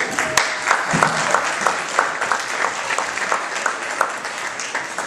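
Audience applauding, with a few loud individual claps close by standing out above the rest.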